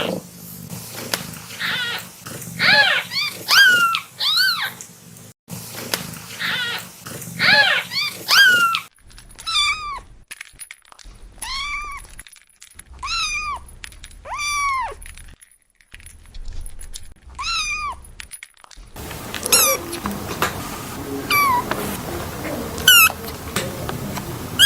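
Kitten meowing over and over in short, high calls that rise and fall in pitch, about one or two a second. The sound cuts off abruptly three times between takes.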